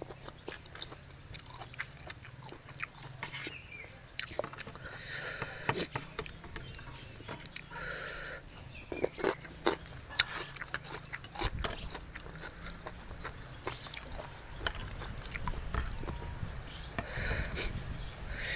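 Close-up eating sounds of a person eating spicy seafood papaya salad with shrimp and crab: chewing and crunching with scattered clicks and scrapes, and a few short hissing bursts.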